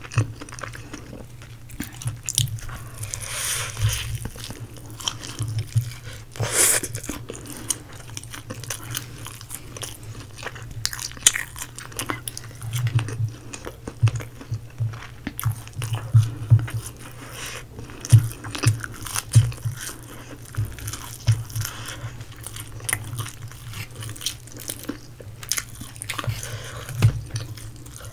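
Spicy fried chicken being bitten and chewed close to a microphone: repeated crunches of the crispy breading with steady chewing, one especially loud crunch about six seconds in.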